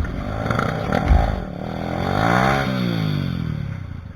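Trail motorcycle engine revving hard on a steep climb, its pitch rising to a peak and then falling away, with a low thump about a second in; the engine sound fades near the end.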